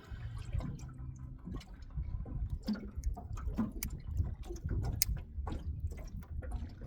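Water splashing and dripping, with scattered sharp clicks and knocks.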